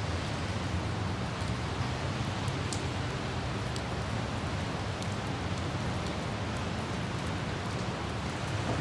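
Steady light rain with scattered droplet ticks, over a low, steady rumble of city traffic and wind.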